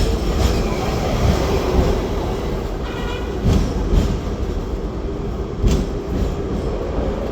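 Hong Kong double-decker electric tram running along its street track, heard from on board: a steady low rumble with a few sharp clicks from the wheels on the rails.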